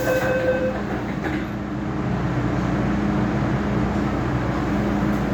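Inside an MTR M-train carriage: the door-closing warning tone stops about a second in, a faint thud follows, and the train's traction motors and running gear hum and rumble, growing a little louder as the train pulls away.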